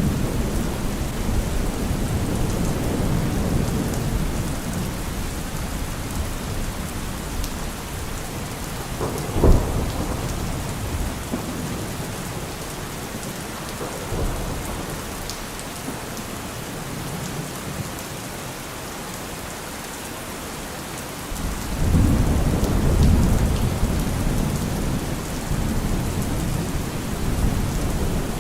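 Steady rain with thunder. A low rumble dies away over the first several seconds, a sharp thunderclap comes about nine and a half seconds in, and a new rolling rumble starts suddenly about three-quarters of the way through.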